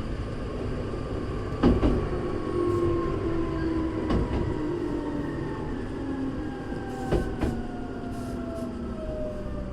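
Hankyu 3300 series electric train running, its motor whine falling steadily in pitch as the train slows, with sharp wheel knocks over rail joints about four times.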